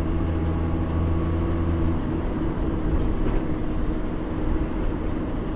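Bus engine running with a steady low hum over road noise. About two seconds in, the engine note changes and fades back into the rumble.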